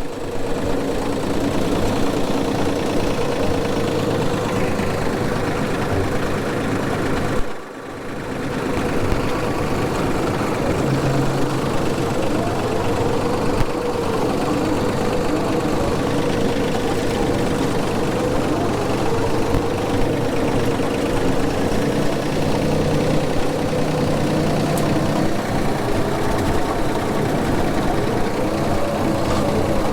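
Tractor engine running steadily under load while driving a brush hog (rotary mower) cutting down weeds. There is a brief drop in level about seven seconds in, then it runs on.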